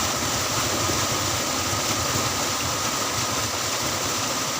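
Tube-well pump engine running steadily, with water rushing.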